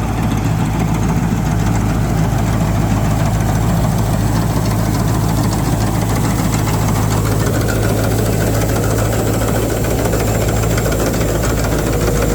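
Rice combine harvester running steadily while harvesting, its engine a steady low hum under a dense clatter of cutting and threshing machinery. A faint high whine grows stronger in the second half.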